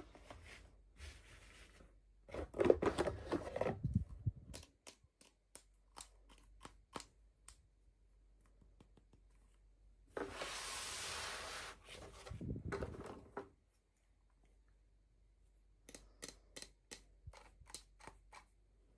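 Packaging being handled and opened by hand: crinkling, a steady rasp lasting about two seconds midway, and runs of light clicks and taps.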